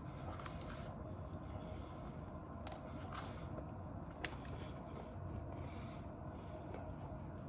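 Person eating pizza: faint chewing with a few sharp clicks, over a steady low hum.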